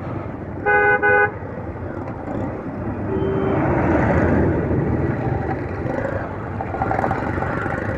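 A vehicle horn toots twice in quick succession about a second in, over steady road and traffic noise from riding in slow, jammed traffic.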